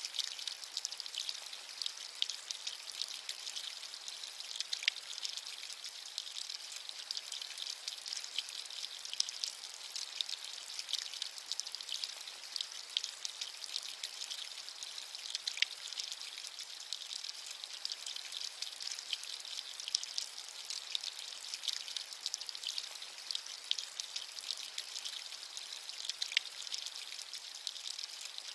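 Steady rain: an even, high-pitched hiss of falling rain with many small drop ticks scattered through it.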